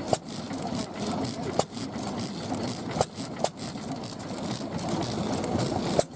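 Old stationary engine running, with sharp pops at irregular intervals over a steady mechanical clatter, and a short high chirp repeating about three times a second.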